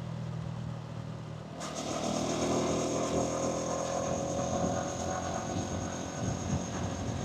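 Hansom Bike Venett 125cc motorcycle engine and exhaust running while riding, with wind and road noise. About a second and a half in, the sound grows louder and the engine pitch climbs gradually as the bike speeds up.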